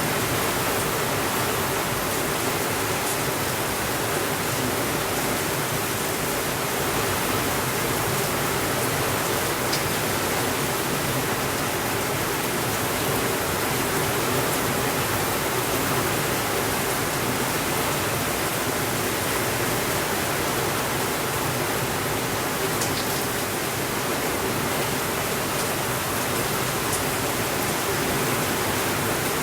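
Steady rainfall, an even hiss that holds the same level throughout, with a few faint ticks.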